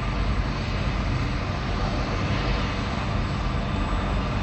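Helicopter running, a steady engine and rotor noise with a low hum.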